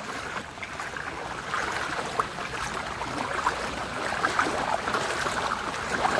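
Floodwater flowing: a steady wash of moving water with small scattered splashes.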